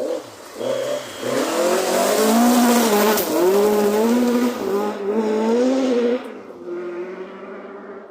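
Rally car going past at speed on a gravel forest stage, its engine revving up and down repeatedly over loud tyre and gravel noise. After about six seconds it drops away sharply, leaving a fainter engine note.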